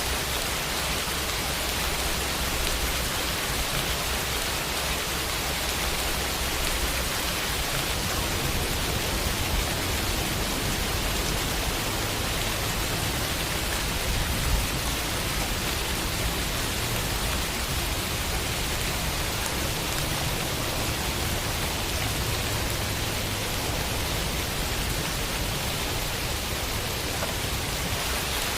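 Steady summer rain falling on a window, an even hiss of many drops with one slightly louder tap about halfway through.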